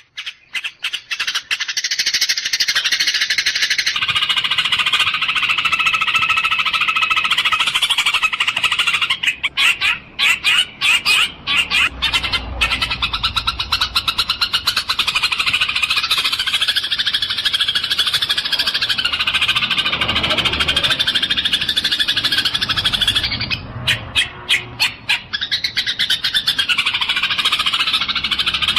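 Eurasian tree sparrows chirping: a dense, unbroken stream of rapid chirps, thinning briefly twice.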